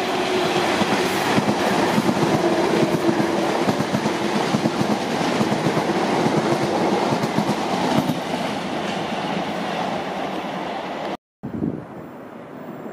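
A train running past at speed: rapid wheel clatter over the rail joints under a steady hum, easing off after about eight seconds. The sound cuts out abruptly about eleven seconds in and comes back quieter.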